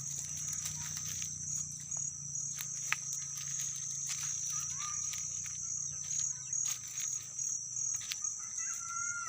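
Steady high-pitched insect chorus of crickets or cicadas, with scattered light clicks and a few short chirps. A faint low hum underneath stops about eight seconds in.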